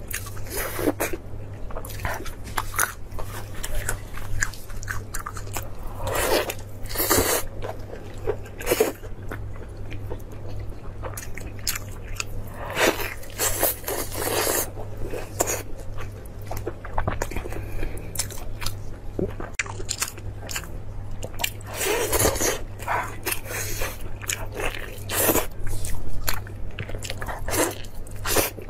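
A person biting into and chewing braised meat on a large bone, in irregular bursts, over a low steady hum.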